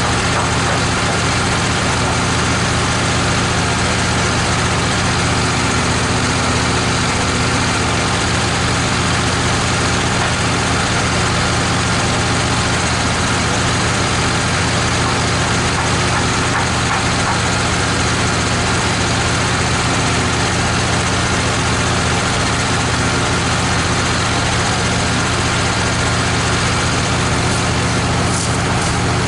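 Wood-Mizer LT15 portable band sawmill running steadily, its engine holding an even note with no change in speed.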